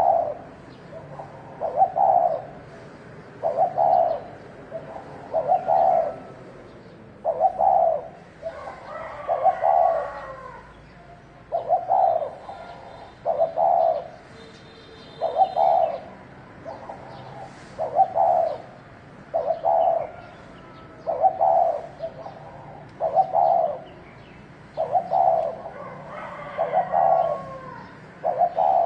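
Spotted dove cooing over and over, one short phrase of coos roughly every two seconds, in the repetitive 'thổ đồng' calling style. Higher chirps are heard briefly around ten seconds in and again near the end.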